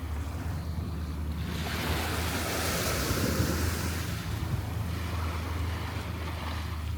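Surf washing onto the beach, with a rush of hiss that swells about a second and a half in and fades a few seconds later. Wind rumbles steadily on the microphone underneath.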